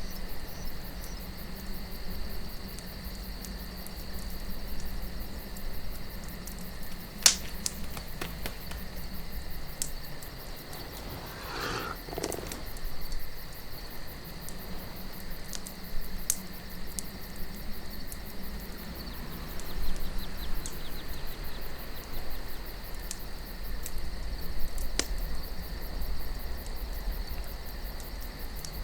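Wood campfire crackling, with scattered sharp pops, the loudest about seven seconds in, over a soft steady desert wind and a continuous high chirring.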